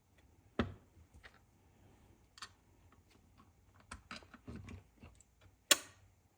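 Scattered light clicks and knocks of hand tools and small bolts and nuts being handled while bumper spikes are bolted onto a chainsaw's clutch-cover side, with a sharper clack near the start and another near the end.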